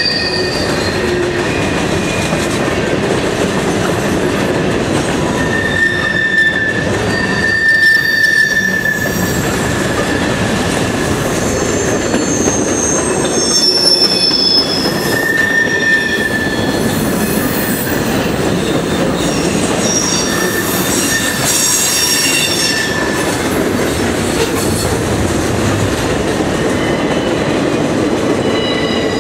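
A freight train's cars rolling past close by: a loud, steady rumble of steel wheels on rail, with high squeals from the wheels coming and going several times.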